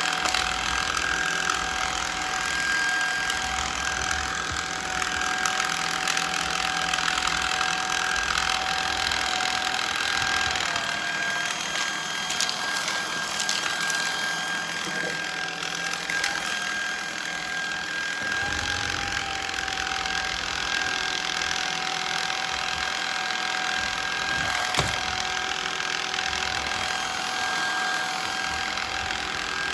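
Shark Vertex cordless stick vacuum running steadily with a high motor whine, its pitch dipping briefly twice, with a few faint clicks. It is pushing jelly beans across a hardwood floor and cannot suck them up.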